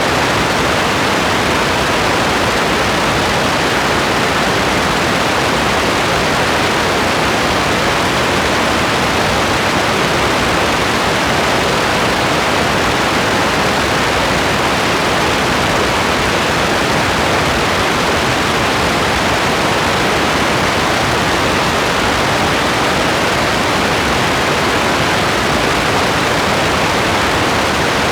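Steady rain: an even, unbroken hiss with no separate drops or thunder standing out and no change in loudness.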